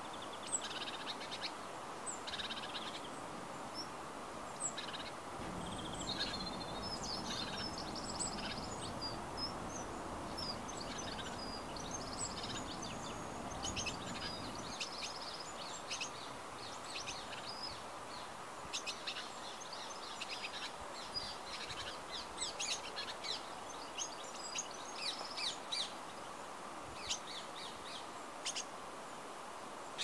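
Birds chirping and calling: many short, high calls scattered through, over steady background noise. A low rumble comes in about five seconds in and stops about fifteen seconds in.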